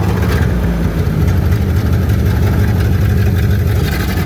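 1929 Ford Model A's four-cylinder flathead engine running steadily, a low, even engine note.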